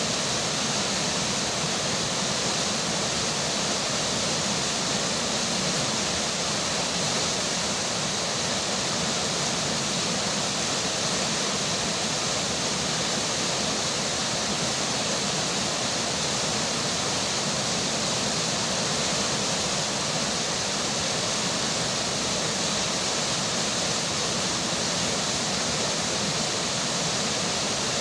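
River water flowing with rainfall, an even, unbroken rushing hiss that holds steady throughout.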